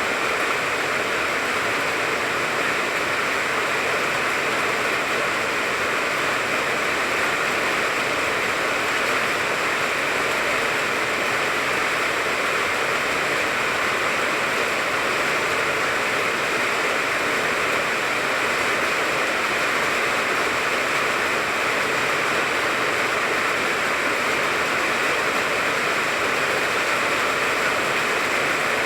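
Steady rain falling on a tangerine tree: an even, unbroken hiss with no single drops or pauses standing out.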